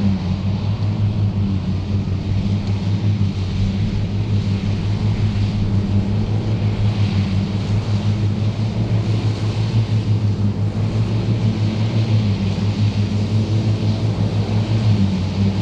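Ford 8630 tractor's diesel engine running steadily under load, driving a Mengele SH40N forage harvester through silage, with a deep, even drone.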